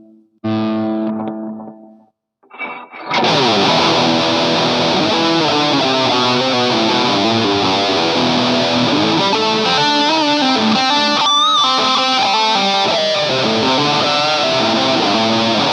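Electric guitar through distortion and effects. A chord rings out at the start, then after a short pause a dense distorted riff or lead line begins about three seconds in, with bent notes partway through.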